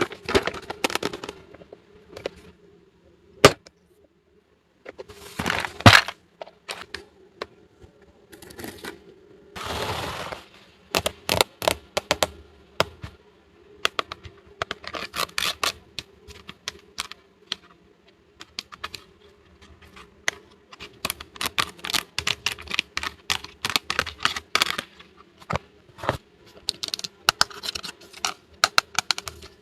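Small plastic toy pieces clicking and tapping as they are handled and set down, in quick clusters, with a couple of brief rustles of packaging.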